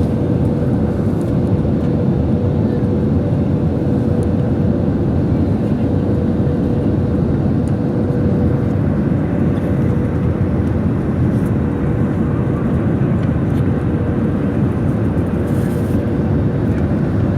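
Steady cabin noise of an airliner descending on approach: the even rumble of engines and airflow, with a faint hum held at one pitch throughout.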